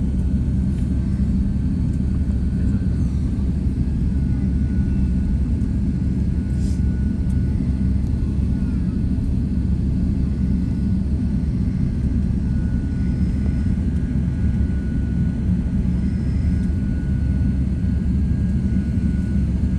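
Jet airliner noise: a steady low rumble that neither rises nor falls, with a faint thin whine coming and going above it.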